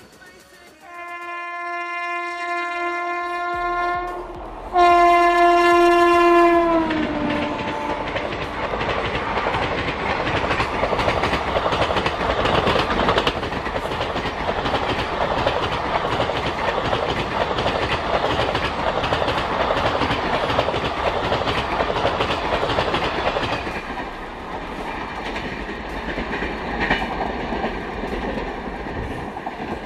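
Express train passing at speed: the locomotive's horn blows twice, the second blast the loudest and dropping in pitch as it goes by. Then the coaches rush past with wheels clattering on the rails, growing quieter over the last few seconds.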